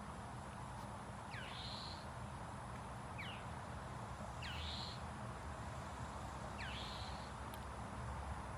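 A bird calling over and over, four times, each call a quick falling whistle followed by a short buzzy note, about every two seconds, over a steady low background hum.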